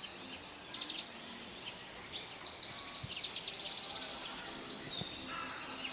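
Small birds chirping: quick runs of short, high, falling chirps from several birds calling over one another.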